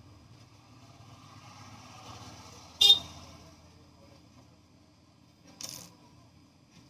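A sharp, ringing metallic clink about three seconds in, like a small metal object set down on a hard surface, followed near the end by a softer click, over a faint steady hum.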